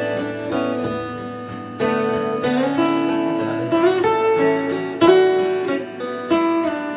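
Acoustic guitar playing an instrumental passage of a song, picked and strummed, with no singing.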